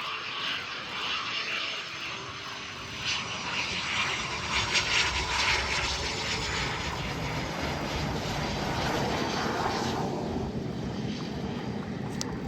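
Aircraft engine noise as an aircraft passes in display flight: a steady rushing sound that is loudest around the middle, with its high hiss falling away about ten seconds in and leaving a low rumble.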